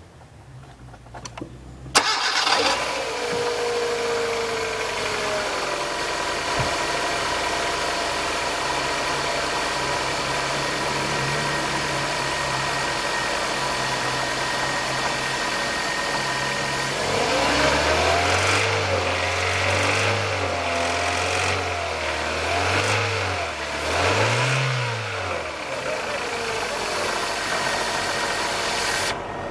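Hyundai Elantra HD's 1.6-litre four-cylinder engine starting about two seconds in and idling. It is then revved up and down several times before dropping back to idle. The owner is asking about a knock in this engine that appears from about 2500 rpm and goes away after 30–40 minutes of running.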